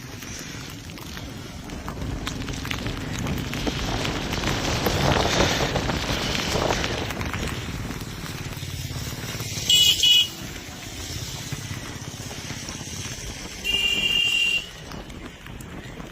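Road traffic by floodwater: a vehicle passes with a swell of noise, then a vehicle horn sounds twice in quick short blasts and once more for about a second.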